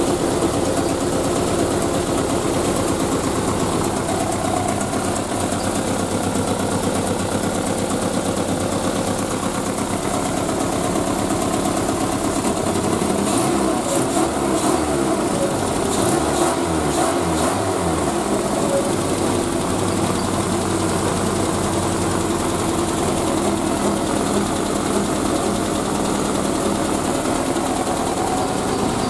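Triumph Spitfire's four-cylinder engine with twin SU carburettors idling steadily just after start-up, freshly refilled with coolant and run to check the new radiator for leaks. The sound wavers for a few seconds about halfway through.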